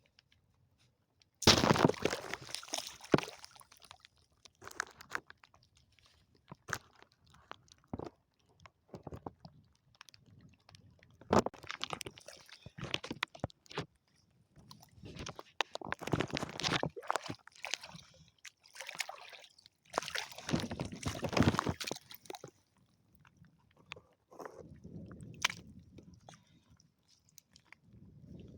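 Irregular bursts of crunching and scraping with sharp clicks, with softer sloshing of shallow water near the end.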